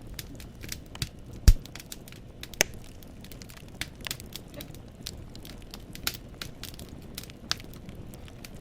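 Wood fire in a fireplace crackling, with irregular snaps and pops from the burning logs over a low steady rumble of the flames. One loud pop comes about one and a half seconds in and another about a second later.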